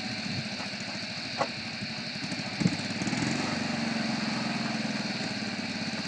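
Old truck engine running at idle, with two short knocks early on; about three seconds in, its note rises slightly and holds steady.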